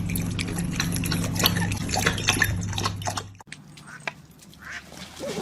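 Water splashing and dripping in dense, irregular clicks over a steady low hum, cutting off abruptly about three and a half seconds in.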